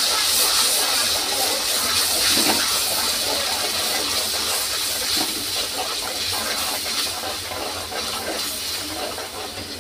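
Onion, ginger, garlic and green chilli paste sizzling in hot oil with curry leaves: a steady frying hiss that slowly dies down.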